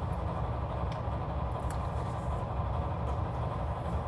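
A steady low rumble of background noise, with a few faint, light scratches of a pen writing on paper.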